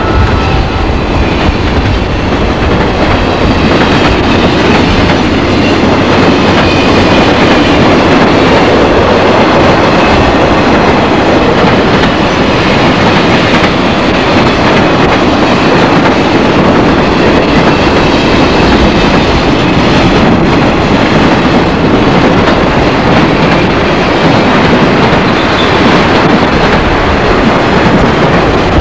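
A train rolling past, its cars making a steady, loud rumble over the track.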